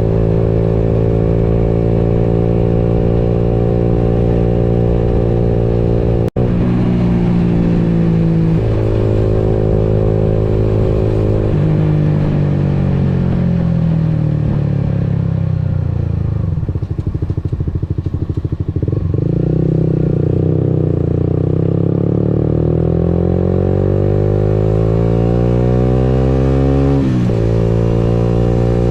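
Motorcycle engine running on the move, its pitch shifting with throttle and gear changes. Around the middle it eases off and the pitch falls, then it climbs steadily under acceleration before a sudden drop near the end as it shifts gear.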